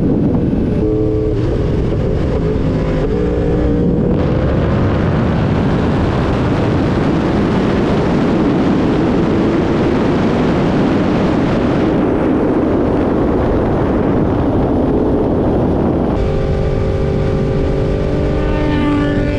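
Litre-class sport bike's inline-four engine under way, with loud wind rush on the microphone. The engine note shifts pitch in the first few seconds, then the wind rush covers most of it at speed. The engine note comes back about three-quarters of the way through and climbs as the rider revs up near the end.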